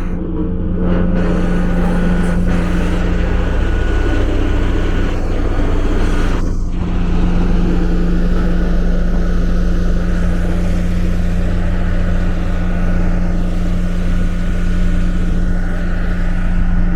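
An engine running steadily with a constant low hum and rumble, typical of heavy construction machinery or a large vehicle at work.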